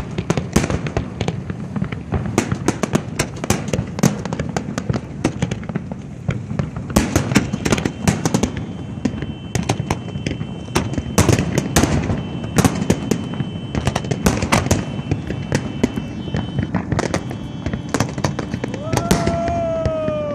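Fireworks display going off: a dense, rapid run of bangs and crackles, with a falling whistle-like tone near the end.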